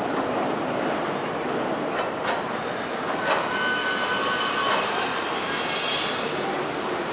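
Sobu Line electric commuter train running past on the rails: a steady rumble of wheels on track, with a few sharp clacks of wheels over rail joints and a thin high wheel squeal from about three to six seconds in.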